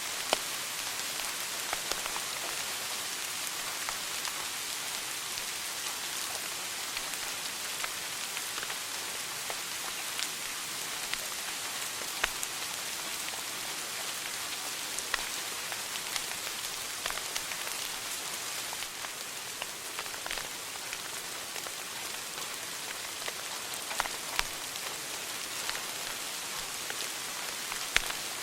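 Wood fire burning in a fireplace: a steady crackling hiss with scattered sharp pops.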